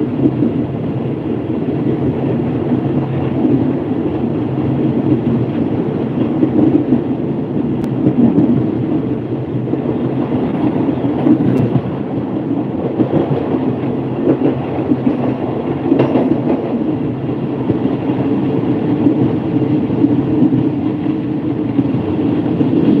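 Passenger train carriage running along the track, heard from an open window: a steady rumble of wheels on rails mixed with rushing wind, with a few faint clicks.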